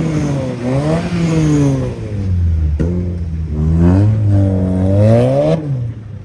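Car engine revved hard several times, its pitch climbing and falling, with a longer climb before it drops off near the end.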